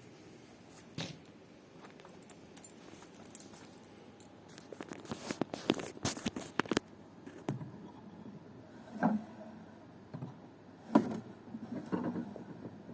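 Irregular clicks, light metallic rattles and knocks of small hard objects being handled, with a dense run of clicks around the middle and a few louder, short knocks with a brief ring near the end.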